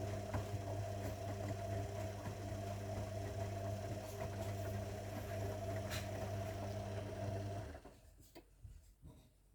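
Zanussi washing machine running with a steady hum, which cuts off about eight seconds in, followed by a few faint clicks.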